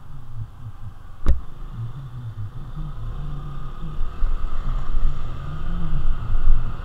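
Honda Navi's small single-cylinder engine running at low speed, with wind on the microphone. A single sharp knock comes about a second in. From about four seconds in the sound grows louder and rumbles as the bike rides over the rough gravel-and-dirt shoulder.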